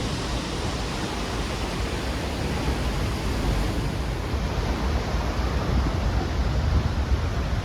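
Steady rushing noise with a strong low rumble underneath, even throughout.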